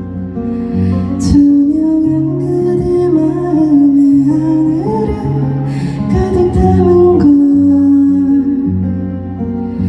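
Live performance of a slow song: a woman singing held, gently gliding notes over guitar and instrumental accompaniment.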